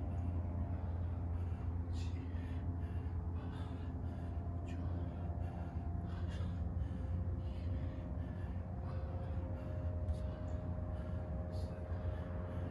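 A person breathing hard during exercise: short, rhythmic breaths, about two a second, over a steady low hum.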